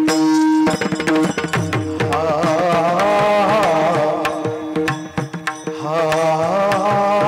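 Kirtan devotional music: hand drums beating under a held instrumental tone, with a singer's voice coming in about two seconds in and carrying on with wavering, ornamented notes.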